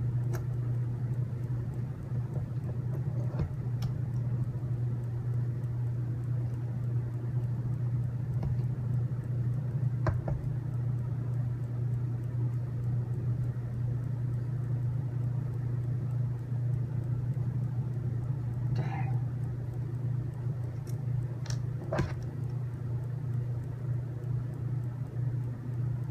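A steady low hum runs throughout, with a few faint scattered clicks of small screws and plastic parts being handled.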